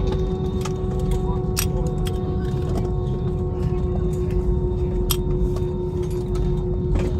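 Airliner cabin noise after landing: a steady low rumble with a constant hum, broken by several sharp clicks.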